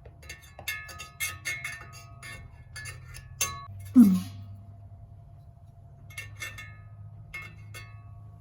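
Metal tools and parts clinking and clattering with a bright ringing tone, in two bouts, while working around an opened air compressor; a louder short low sound, falling in pitch, comes about four seconds in. A steady low hum runs underneath.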